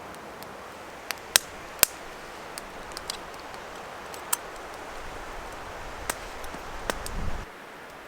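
Campfire crackling, with about a dozen sharp, irregular pops of burning wood over a steady hiss. A low rumble builds near the end and cuts off suddenly.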